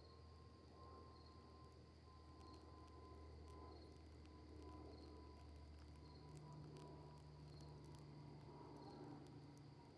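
Faint crackling of a cedar and maple wood campfire, with scattered soft pops. A steady high insect drone with a short chirp about once a second, like a cricket, sits under it.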